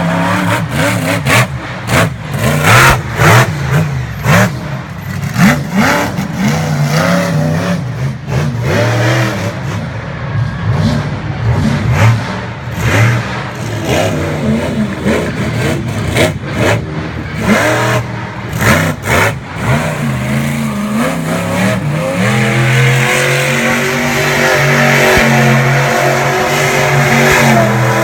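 Monster truck engine revving hard, its pitch surging up and down in repeated bursts of throttle. Toward the end it settles into a steadier, sustained high-revving run.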